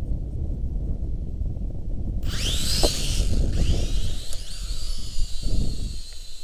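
Wind buffeting the microphone with a steady low rumble. About two seconds in, the small motors of a Syma X5C-1 quadcopter start whining and rise in pitch twice, then hold a steady high whine.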